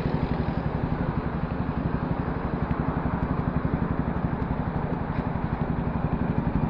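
Voge 300R motorcycle's single-cylinder engine running steadily while riding, with an even, rapid pulsing exhaust note and road and wind noise.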